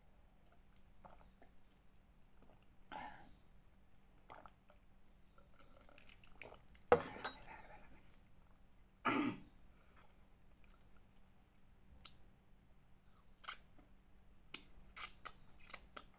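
Close-miked eating sounds: soft chewing, a sharp sudden noise about seven seconds in and a cough-like noise about two seconds later, then a quick run of lip and finger smacks near the end.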